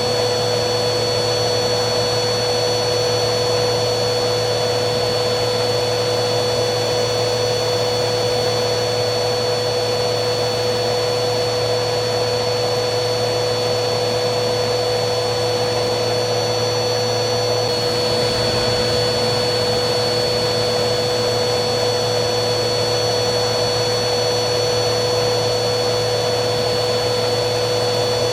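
Vacuum cleaner motor running steadily: a constant rush of air with a high, even whine over it. About two-thirds of the way through, the whine gives a brief small hitch, then carries on unchanged.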